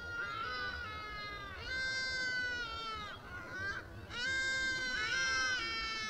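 Drawn-out whining bird calls, about five in a row, each held at one pitch for half a second to over a second and dropping at the end.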